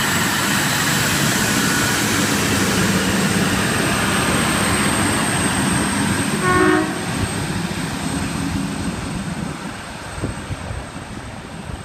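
Endeavour diesel railcar set pulling out of the station, its engine and wheels loud and steady, then fading as it leaves. A short horn toot sounds about six and a half seconds in.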